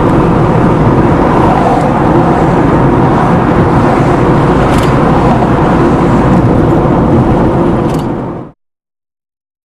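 Car driving along a road, a steady rumble of road and engine noise, which fades and cuts to silence near the end.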